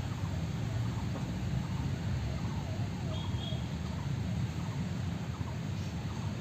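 Faint birds calling: a series of short warbling calls, with one high two-note chirp about three seconds in, over a steady low rumble.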